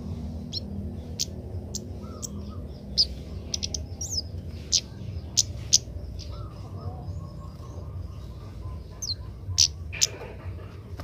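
Young kemade bird giving short, sharp high chirps, several in quick succession through the middle and a couple more near the end, over a steady low hum. This is a young bird practising its calls.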